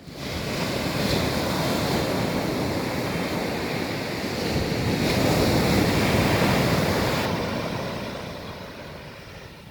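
Ocean surf washing onto a beach as a steady rush of noise. It swells again about five seconds in, then ebbs away toward the end.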